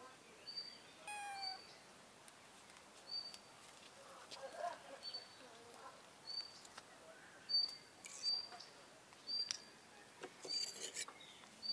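A bird repeating a short, high, even-pitched peep about once a second, with a brief higher cry about a second in and a few sharp clicks near the end.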